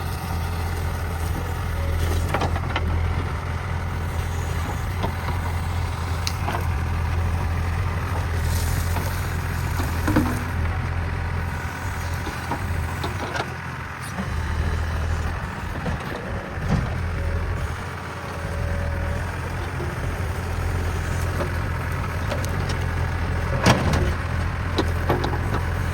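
JCB backhoe loader's diesel engine running steadily under work, with scattered knocks and cracks as the bucket works through soil and brush.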